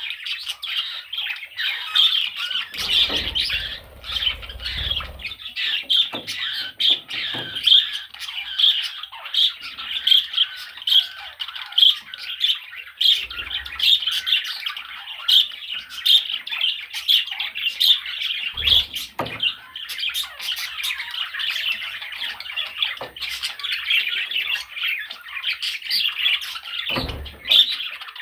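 Budgerigar chatter: a continuous rapid warble of short, squawky notes, with a few dull low bumps now and then.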